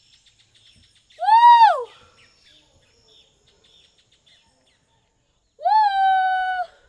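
Two high wordless vocal calls: the first glides up and falls away in an arch about a second in, and the second, near the end, rises quickly and is held on a steady note for about a second before dropping off. Faint high chirping runs underneath.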